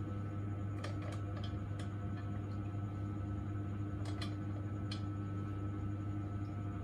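A steady low hum with a handful of short, light clicks scattered through it, the clicks coming irregularly about a second apart.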